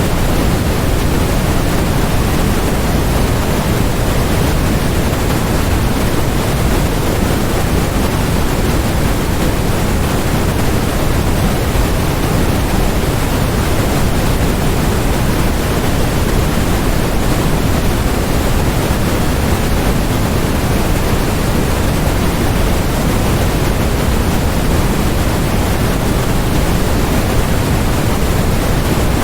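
Continuous synthetic noise: a steady, unchanging rush with no breaks, weighted toward the low end, closer to pink noise than to flat white noise.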